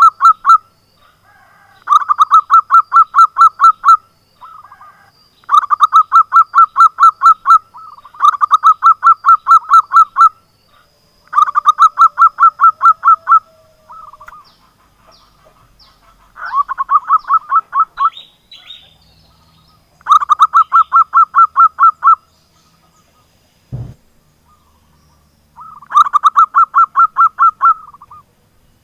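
Zebra dove (perkutut) calling in repeated bursts of rapid staccato notes, each burst lasting about two seconds, with short pauses between them. A single low thump comes in near the end.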